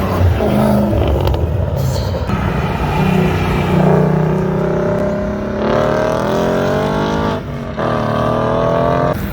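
A car engine accelerating hard, its pitch climbing steadily, then dropping briefly at an upshift and climbing again in the next gear. Before that a lower engine rumble.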